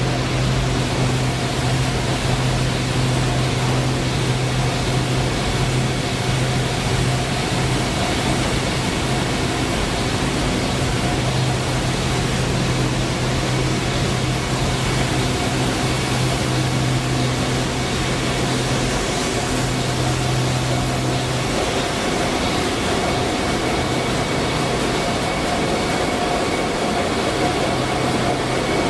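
Engine-room noise of a Sulzer 12RTA96C twelve-cylinder two-stroke low-speed marine diesel running steadily at about 70 rpm: a loud, even rush with a few constant tones. A low hum in it drops out about three-quarters of the way through.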